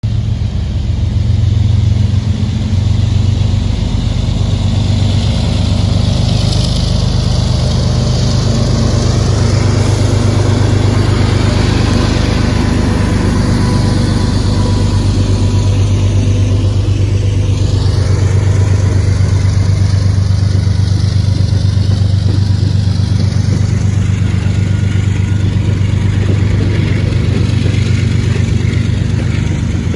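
Norfolk Southern diesel freight locomotives passing close by, their engines making a loud, steady low drone, followed near the end by freight cars rolling past on the rails.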